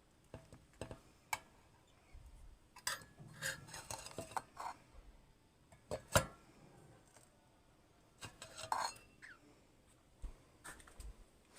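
Irregular light clicks and clinks of small hard objects knocking together, in scattered clusters with pauses between; the sharpest knock comes about six seconds in.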